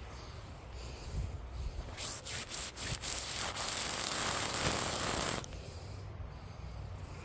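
A rubbing, scraping noise that builds about two seconds in and cuts off suddenly a little over three seconds later.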